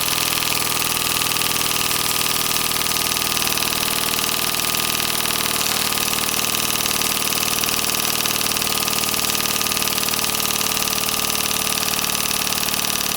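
Tiny governor-controlled model steam engine running steadily on steam. As its boiler pressure drops, the governor, which changes the valve timing, keeps it at a constant speed.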